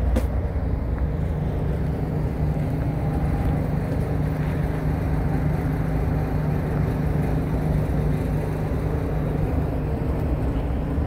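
Diesel engine of a Komatsu PC170 excavator running steadily with a low, even drone, with a short click right at the start.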